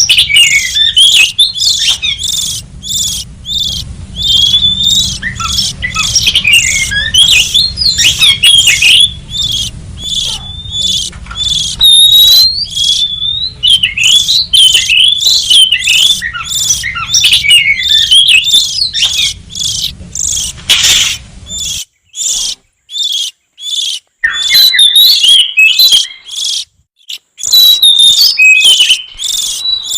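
Oriental magpie-robin calling and singing, a rapid run of sharp, pitch-sliding whistled and chattering notes, several a second, played as a lure call to draw wild magpie-robins. The notes break off briefly about two-thirds of the way through, and a low hum under them stops at the same point.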